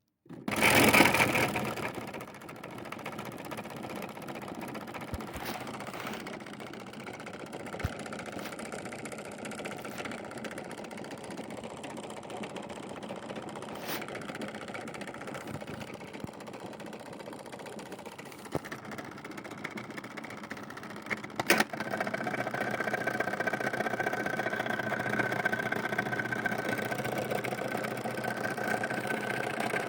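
LG washing machine running with wheels and tyres tumbling in the drum: a steady mechanical rattle with occasional sharp knocks. About two-thirds of the way through it gets louder and a steady high tone joins in.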